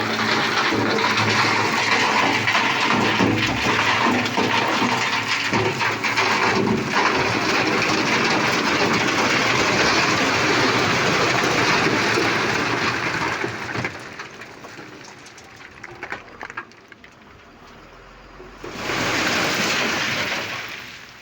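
Construction debris sliding out of a tipper truck's raised bed: a loud, rattling rush of rubble that dies away about thirteen seconds in, with a second short rush near the end.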